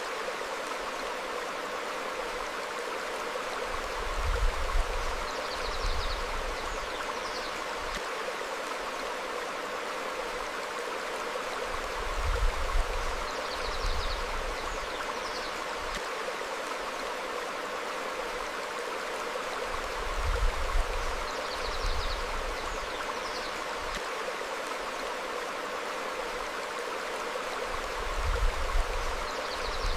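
A stream flowing over rocks, a steady rush of water. Short, faint bird chirps come through high above it every few seconds, and a low rumble swells about every eight seconds.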